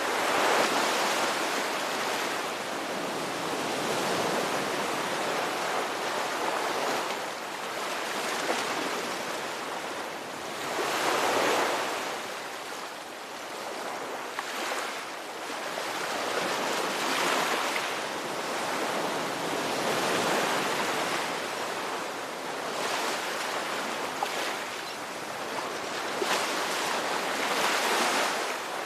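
Ocean surf: waves breaking and washing ashore in a steady hiss that swells and falls back every several seconds.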